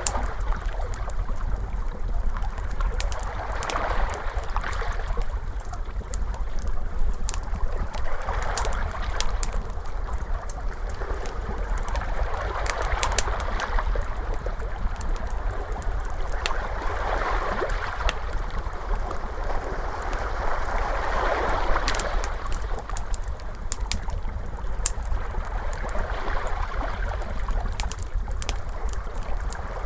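Ocean waves washing in, swelling about every four seconds, mixed with the frequent small pops and crackles of a fire, over a steady low rumble.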